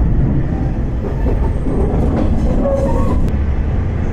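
Kawasemi Yamasemi diesel railcar under way, heard from inside the carriage: a steady low rumble of the wheels and running gear, with a few faint rattles about two to three seconds in.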